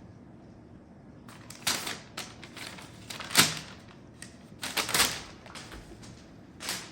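Several short bursts of rustling and clatter from things being handled, about four of them, the loudest about three and a half seconds in.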